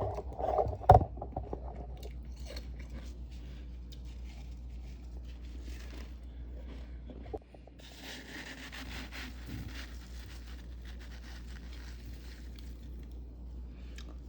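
Crisp freezer frost crunching, loudest in the first two seconds with a sharp crack about a second in, then softer scattered crackles and a scraping rasp from about eight to ten seconds in.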